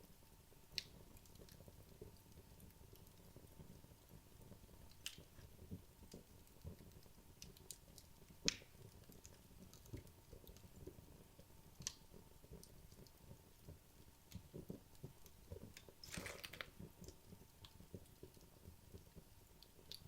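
Wood logs burning in a fireplace: a faint, soft crackle with scattered sharp pops, the loudest about eight seconds in, and a short flurry of crackles about sixteen seconds in.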